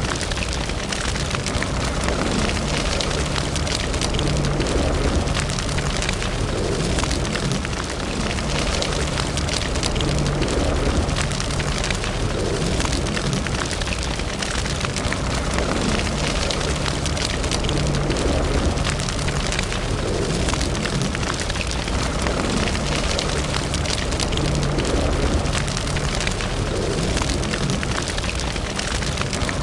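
Wood fire burning in a fireplace: a steady crackle of many small, irregular pops over a low, even rumble of the flames.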